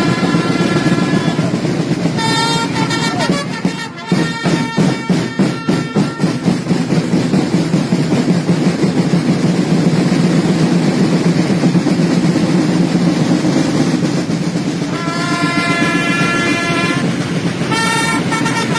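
Trumpets sounding held notes, with a rapid drum roll from about three to six seconds in, over continuous crowd noise; the trumpets sound again in the last few seconds.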